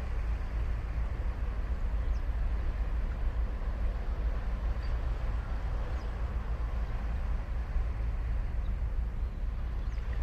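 Ocean waves on a sandy beach: a steady wash of surf with a deep rumble underneath. A few faint, short high chirps come through now and then.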